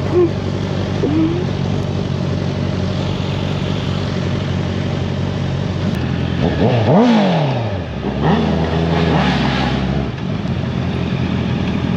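Honda CBR650R's inline-four with an Akrapovič exhaust idling, then revved once about halfway through, pitch rising and falling back, followed by a few smaller throttle blips before settling back to idle.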